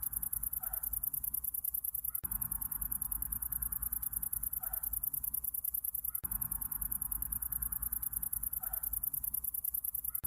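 A chorus of night insects trilling, very high-pitched in a fast, even pulse, over a low steady hum. A short faint call comes twice, about four seconds apart. The recording is looped: the same few seconds repeat with a small break each time.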